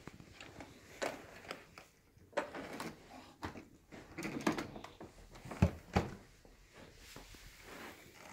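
Clicks, knocks and short rattles from the plastic parts of a Panasonic Power Wave MC-V7305 upright vacuum being handled with its motor off. The loudest are two sharp knocks about half a second apart, some five and a half seconds in.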